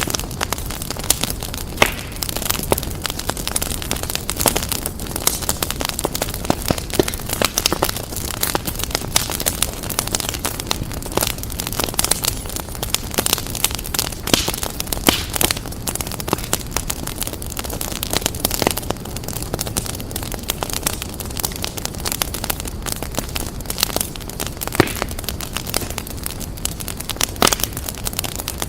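Wood fire crackling and popping: dense, irregular snaps and pops over a steady low rumble and hiss of the flames.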